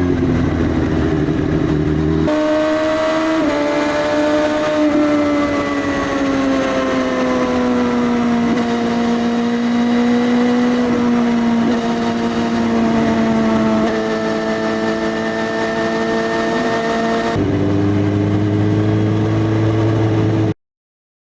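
Suzuki GSX-S1000 inline-four engine running through an Arrow full-system exhaust with no dB killer, loud and unbaffled while riding. The engine note slides slowly down in pitch and then holds steady, with sudden jumps in the note at about two seconds in and again near the end. It cuts off abruptly to silence just before the end.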